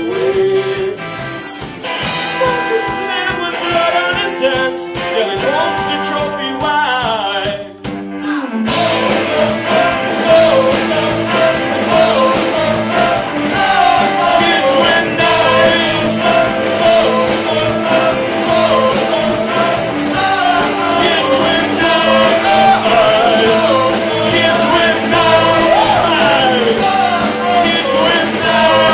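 Live rock band playing an instrumental stretch: a sparser passage of held and sliding notes, then the full band with drums comes in about nine seconds in and plays on.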